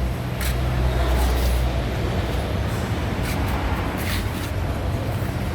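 Heavy vehicle engine running with a steady low rumble, heaviest early on, and a few short hisses over it.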